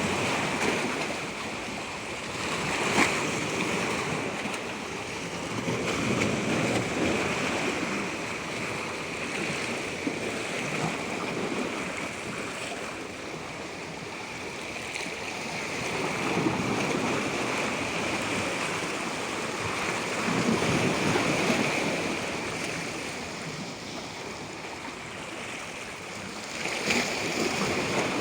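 Water washing in waves, swelling and easing every few seconds over a steady high hiss.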